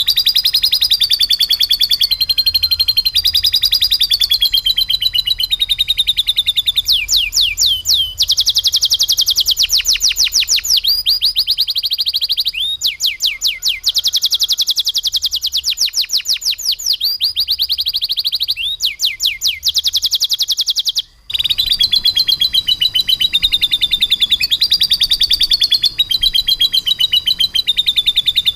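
Domestic canary singing a loud, continuous rolling song of fast trills and rapidly repeated notes, with lovebird-style phrases worked into it. The song breaks off for an instant about two-thirds of the way through, then carries on.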